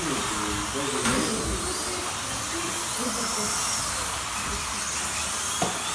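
Group C slot cars racing round a track, their small electric motors whining steadily, with the pitch rising and falling as they speed up and slow down. A short knock comes near the end.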